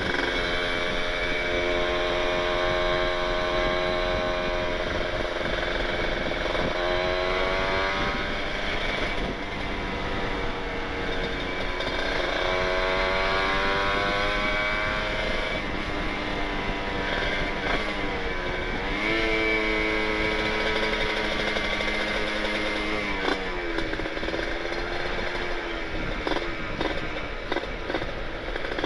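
Kawasaki Ninja 150RR's two-stroke single-cylinder engine through an Aitech carbon kevlar aftermarket exhaust with an R9 expansion chamber, under way. Its pitch rises and falls again and again with throttle and gear changes, drops sharply about three quarters of the way through, then runs unevenly near the end.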